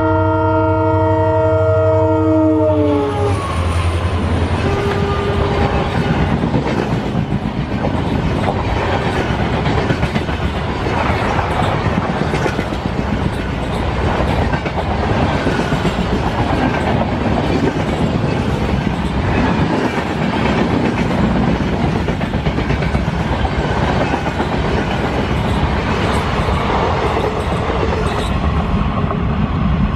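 An EMD WDP4-class diesel locomotive's multi-tone air horn sounds a long blast that sags in pitch as it cuts off about three seconds in, followed by a short second toot. The train then runs past at speed, wheels clattering over rail joints with a steady rush of coach noise.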